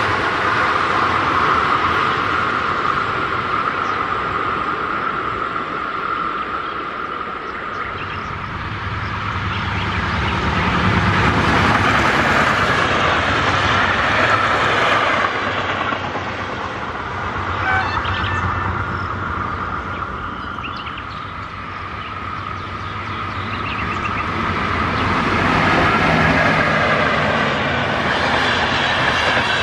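Passenger trains passing one after another, the coaches' wheels running and rumbling on the rails. The sound swells as each train comes close and fades as it draws away. A low rumble comes in about a third of the way through and cuts off suddenly about halfway.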